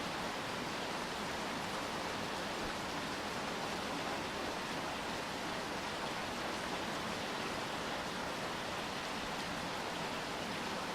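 Steady rain falling, an even hiss with no separate drops or breaks.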